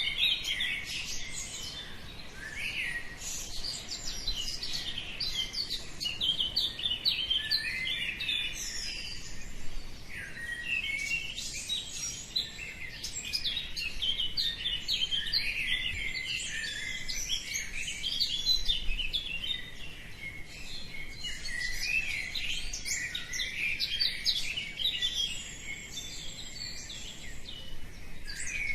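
Many small birds chirping and singing at once in a dense dawn chorus, with quick overlapping high chirps and trills that never let up.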